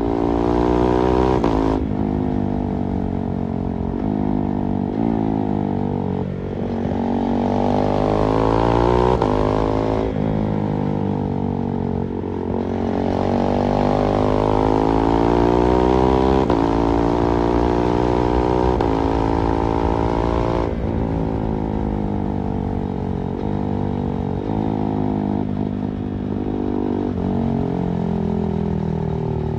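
KTM 390 Duke's single-cylinder engine under way, its pitch climbing with each pull through the gears, dropping sharply at the shifts and easing back down as the rider rolls off, heard from the rider's backpack.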